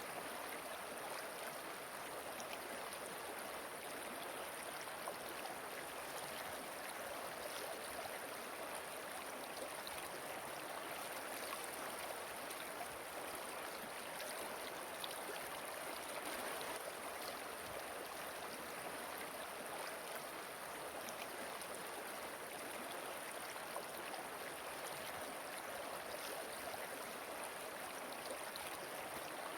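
A waterfall and river running steadily, an even rush of water with no change in strength.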